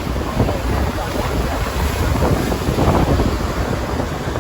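Wind buffeting the microphone on a boat deck at sea, a steady rumbling rush with the wash of the sea and the boat underneath.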